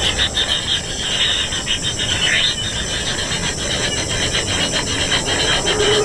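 Kingfisher nestlings giving rasping, buzzy begging calls, a fast run of scratchy ticks.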